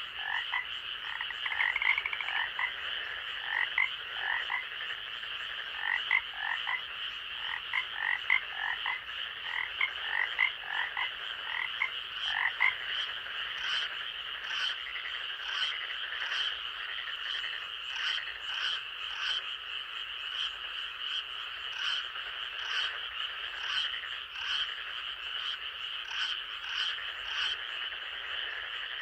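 Night chorus of frogs in a forest: a steady high trill under many short repeated croaking calls. The lower calls thin out about halfway through, and higher, sharper calls take over.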